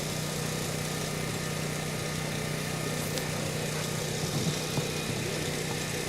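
A steady, unchanging low mechanical hum, like an idling engine.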